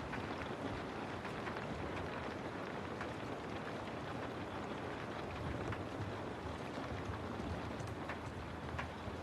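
Steady rainfall, an even hiss with scattered drops ticking on surfaces.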